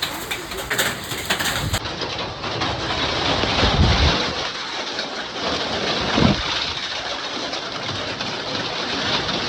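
Hailstorm: heavy rain with hailstones hitting surfaces, a dense steady hiss with many small sharp ticks. A couple of short low thumps come about four and six seconds in.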